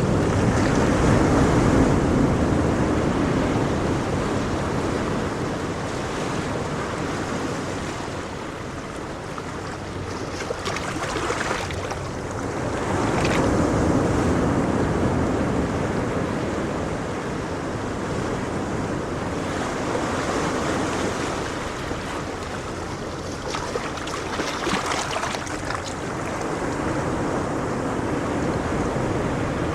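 Ocean waves breaking and washing up the shore, the surf swelling and ebbing in slow surges several seconds apart, with a hiss of foam between swells.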